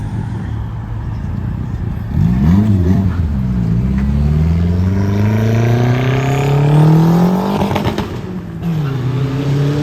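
A car engine running at a low steady idle, then revved twice in quick succession about two seconds in. It then accelerates hard, its pitch climbing steadily for about four seconds, drops abruptly around eight seconds in, and climbs again near the end.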